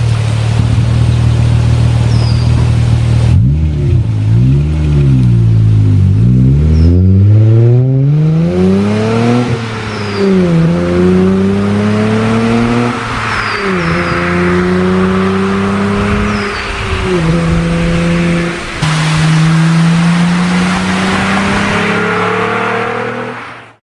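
Hyundai Tiburon's exhaust through an OBX cat-back system: the engine runs steadily, is revved up and down twice, then the car accelerates hard through the gears, the note climbing and dropping at each of about four upshifts. The sound cuts off suddenly near the end.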